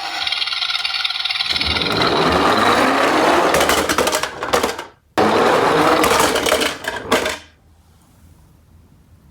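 Die-cast toy garbage-truck minicars rattling as they roll down a slope track. The rattling stops abruptly about five seconds in, starts again at once, and dies away about two seconds later.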